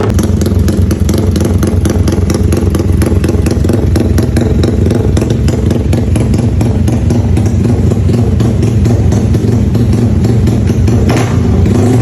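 Yamaha Y15ZR motorcycle's 150 cc single-cylinder four-stroke engine running at a steady, constant speed, its exhaust pulses even throughout.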